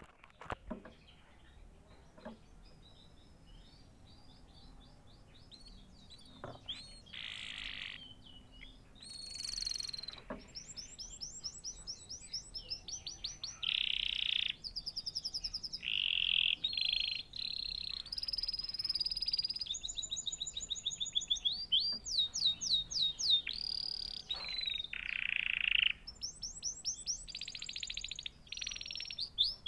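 Domestic canary singing: a long, varied song of fast trills, buzzy rolls and held whistles. The song starts about seven seconds in, after a quiet spell, and goes on without a break.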